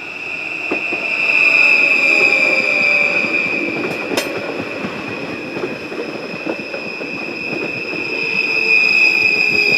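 Passenger train passing over a level crossing: its wheels clatter over the rails and squeal, loudest about a second in and again near the end. A steady high ringing from the crossing's warning bells sounds throughout.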